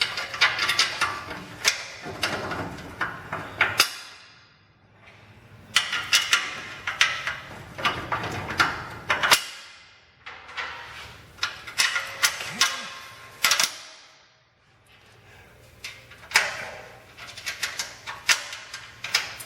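Ratchet wrench clicking in three bursts with short pauses between, tightening the bolts of an exhaust flange to a muffler.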